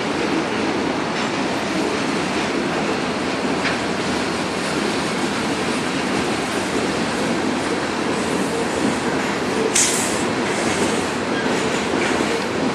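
A BNSF train's cars rolling past close by: steady wheel and rail noise with clatter over the joints, and one sharp metallic clank about ten seconds in.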